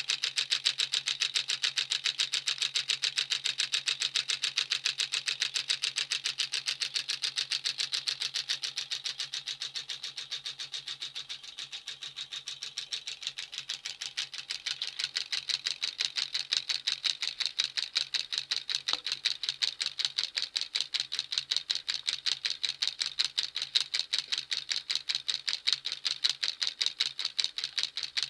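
A 12 V electromagnet engine running, clicking in a fast, even rhythm with a low hum under it; it runs a little softer about eleven seconds in, then picks back up.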